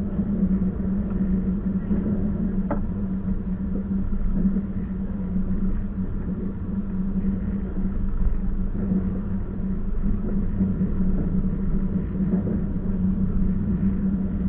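Steady rumble and hum of a moving passenger train, with one brief click about three seconds in.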